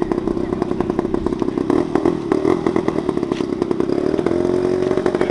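Model airplane engine running with a rapid, even firing beat. About four seconds in it settles into a smoother, steadier note.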